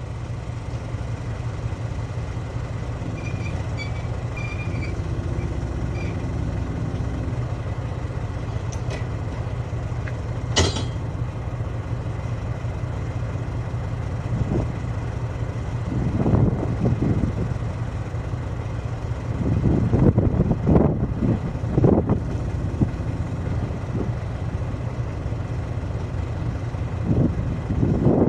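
Heavy diesel engine running steadily at idle, with metallic clanks and knocks from tyre-changing work over it, the loudest clusters about two-thirds of the way through.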